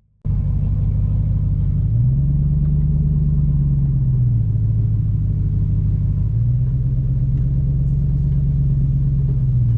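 Motor vehicle engine running under way, starting suddenly a moment in. Its low drone rises in pitch twice for a few seconds each as the engine speeds up and then eases back.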